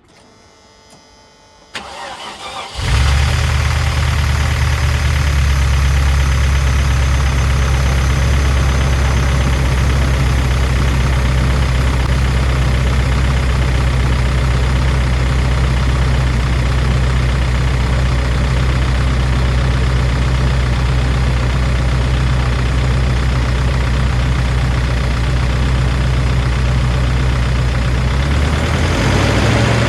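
Land Rover P38 Range Rover engine starting about three seconds in and then idling steadily. Rislone has just been added to the oil to free a valve or lifter that the owner believes is sticking.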